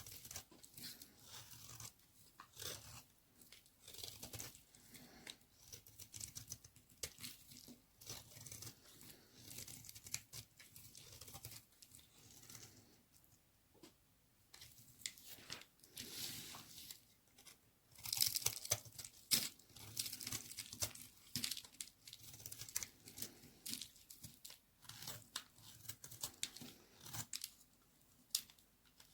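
A blade cutting through dry white baby soap, giving a steady run of crisp crunching and crackling strokes, loudest about two-thirds of the way through.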